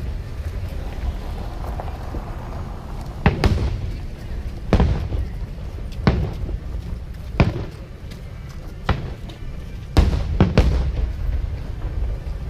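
Aerial fireworks bursting, about seven sharp booms roughly every second and a half, over a low rumble, with music playing underneath.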